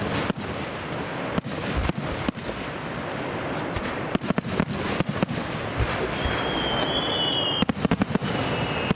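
Fireworks display: a dense crackling of many small bursts with sharp bangs throughout, and a quick cluster of bangs about three-quarters of the way through. A high, thin whistle starts a little past the middle.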